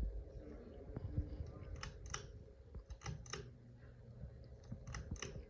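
Hunter low-profile ceiling fan running with a faint steady hum. Sharp clicks come in three small clusters, about two seconds in, about three seconds in and near the end.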